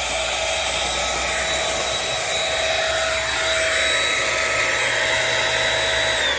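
Dirt Devil Simpli-Stick stick vacuum running with a steady high whine over an airy rush. Right at the end it is switched off and its pitch starts falling as the motor winds down.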